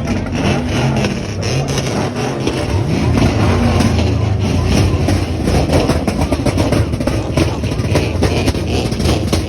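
A car engine revving, its pitch rising and falling several times over a low exhaust rumble in the first few seconds, then running on more steadily.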